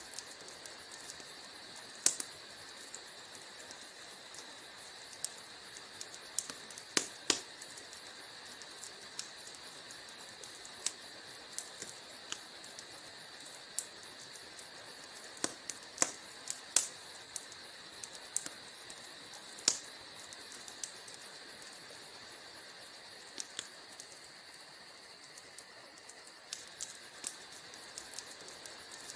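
Wood fire crackling: a steady hiss with irregular sharp pops and snaps, the loudest about two, seven, sixteen and twenty seconds in.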